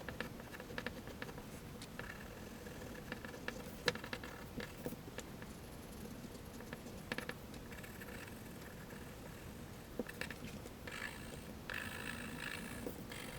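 Graphite pencil scratching and tapping on paper in short strokes while drawing and shading. A denser run of scratchy strokes comes near the end.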